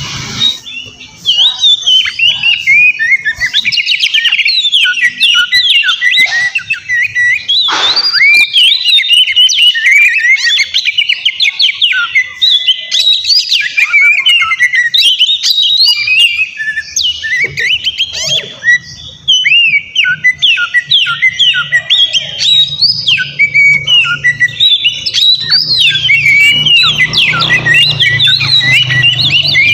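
Oriental magpie-robin singing continuously and loudly: a fast, varied run of chirps, whistles and trills with hardly a pause, and one sharp falling sweep about eight seconds in.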